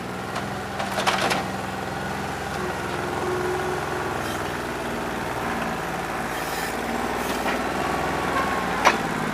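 New Holland 1320 compact tractor's three-cylinder diesel engine running steadily, rough from a bad injector that leaves it running on about two and a half cylinders. A couple of short sharp clanks come through, about a second in and near the end.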